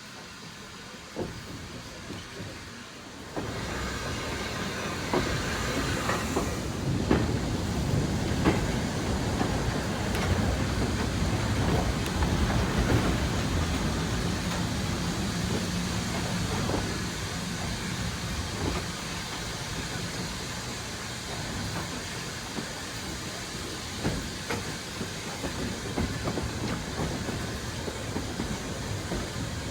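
Train running on a heritage line: a steady rumble with scattered clicks from the wheels over the rail joints. It comes in about three seconds in.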